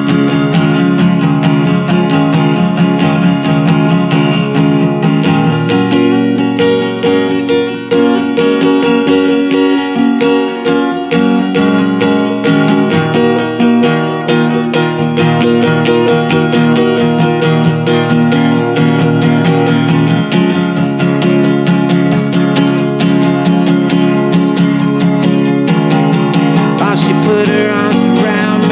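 Instrumental passage of a song led by strummed and plucked acoustic guitar, played steadily.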